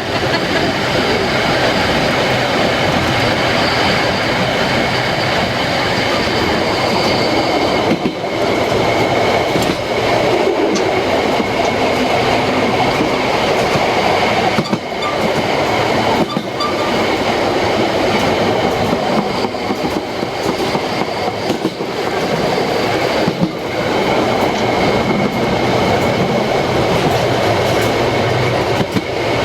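Narrow-gauge train running along the track: a steady rumble and rattle of wheels on rails, with steady high-pitched whining tones over it and a few brief dips.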